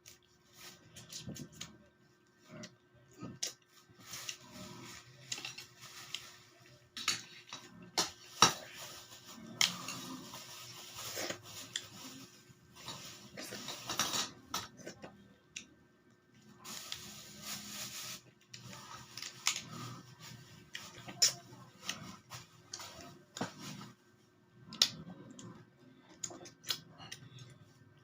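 Eating sounds at the microphone: chewing, with many sharp clicks and clinks of cutlery against a plate in irregular bursts.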